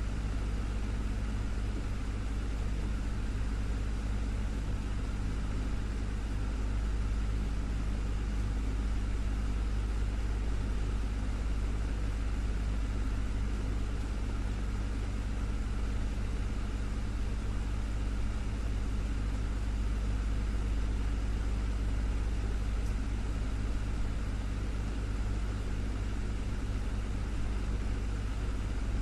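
Desktop fan running steadily: a low hum with a soft even whoosh of moving air.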